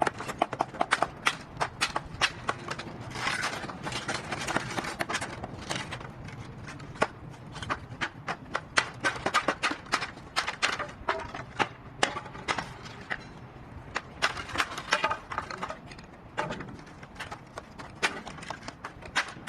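Hailstones striking a hard surface: a dense, irregular run of sharp clicks and knocks, several every second.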